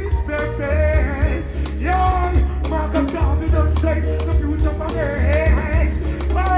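Live reggae band playing with a deep, heavy bass line, and a voice singing over it.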